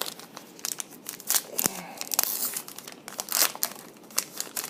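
Foil wrapper of a trading-card pack crinkling and tearing as it is handled and opened, in a string of short crackly rustles.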